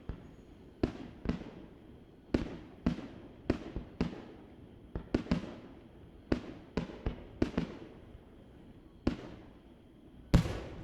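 Fireworks display: firework shells bursting in a rapid series of sharp bangs, one or two a second, each trailing off in an echo, with the loudest bang near the end.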